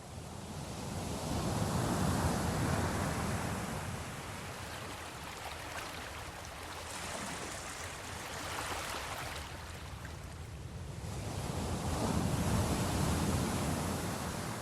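Sea waves washing in slow surges, swelling up about two seconds in and again near the end, then falling back.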